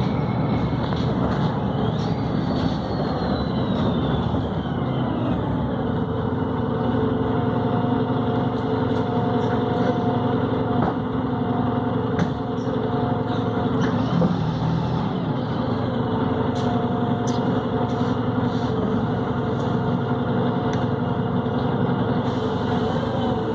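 Volvo B7RLE bus running under way: its diesel engine and Voith automatic gearbox drone steadily. A high whine falls in pitch over a few seconds near the start, and a steady whine runs from about a third of the way in.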